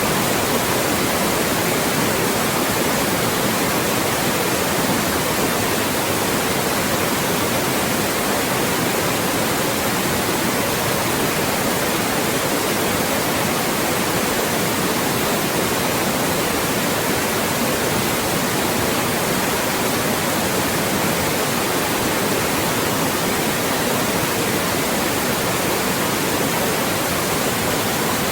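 Steady, loud synthetic white noise: an even hiss across all pitches with no variation.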